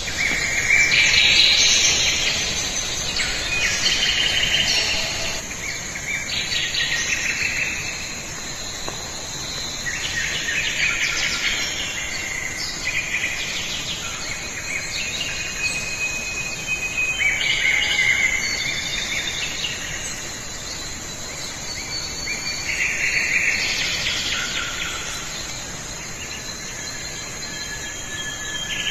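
Jungle ambience: many birds calling and trilling over one another, high-pitched and continuous, with insects buzzing underneath.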